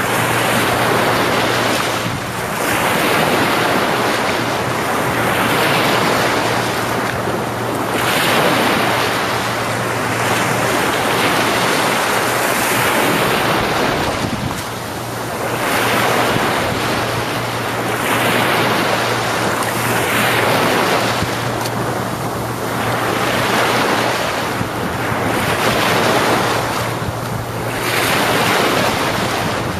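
Sea waves washing onto a beach, a continuous surf that swells and eases every few seconds, with wind buffeting the microphone.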